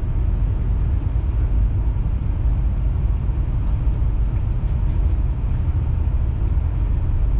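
Via Rail Canadian passenger train producing a steady, loud low rumble, with a few faint ticks.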